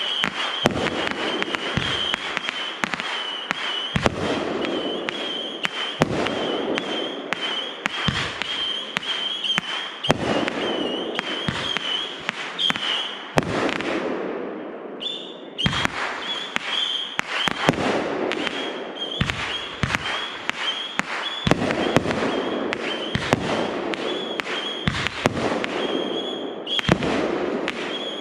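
Fireworks display: a rapid series of shell bursts and bangs, often a second or less apart, over a continuous rumble of overlapping explosions, with a steady high-pitched whine running underneath. The bursts ease off briefly about halfway through, then pick up again.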